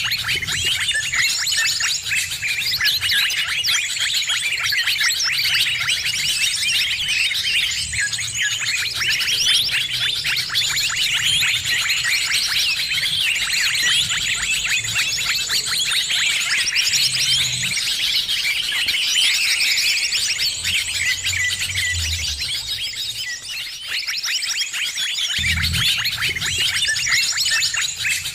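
A dense, noisy chorus of many small birds chirping and twittering at once, a continuous tangle of high calls of mixed species, the kind of bird-lure recording used to draw in birds.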